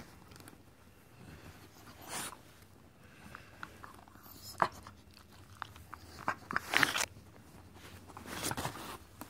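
Dog licking and nibbling at another dog's teeth and mouth: irregular wet smacks and small clicks, the loudest cluster about seven seconds in.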